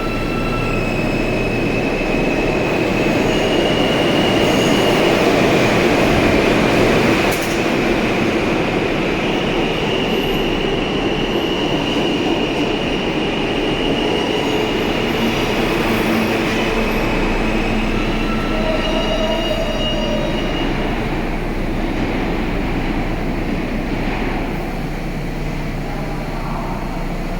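R160-series New York City subway train running through the station, wheels squealing against the rails over a steady rumble. The sound is loudest about six seconds in and then eases.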